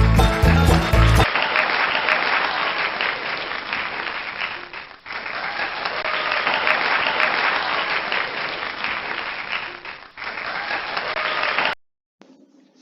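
Crowd applause, steady clapping with two brief dips, that cuts off suddenly near the end; the tail of intro music is heard for about the first second.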